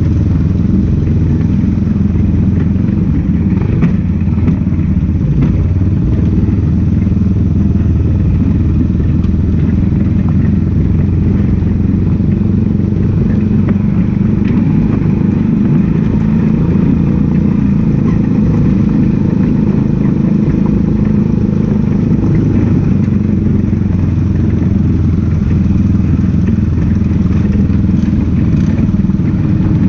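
Race car engine running loudly and steadily, its pitch holding nearly level with only slight shifts.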